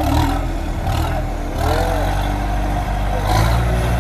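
A tractor engine running steadily, with a few brief voices over it.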